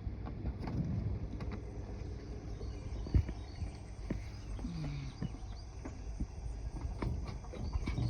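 Outdoor ambience: a steady low rumble with scattered small clicks and taps, and a faint short sliding call about halfway through.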